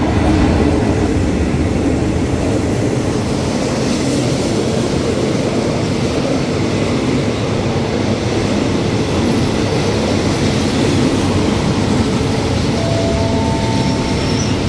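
Diesel passenger train rolling into a station, a steady loud rumble of locomotive and coach wheels on the rails. Near the end, a high steady squeal of wheels or brakes sets in as it slows.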